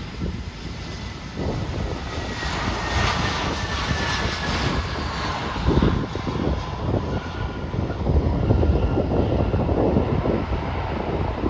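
Jet aircraft engines running past, a steady rumble and hiss with a whine that slides down in pitch, over gusts of wind on the microphone.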